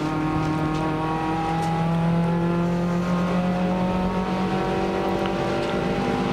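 Nissan March one-make race car's engine, heard from inside the cabin, pulling hard under acceleration, its note climbing slowly and steadily.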